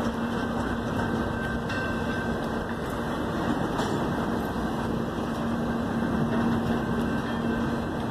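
Double-stack container freight train passing: steady noise of the cars' wheels running on the rails, with a steady low hum.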